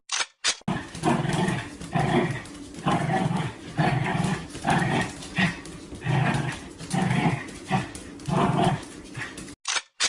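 A dog making a run of short vocal sounds, about one or two a second.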